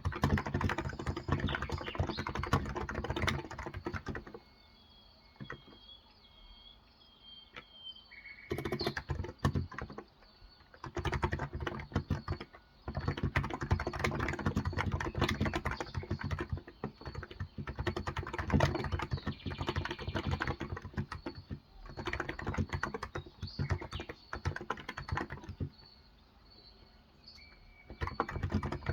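Typing on a Cox Endeavor electro-capacitive (contactless) tenkeyless keyboard with light 35 g keys, in quick bursts broken by pauses of a few seconds. Birds chirp faintly in the pause about five seconds in.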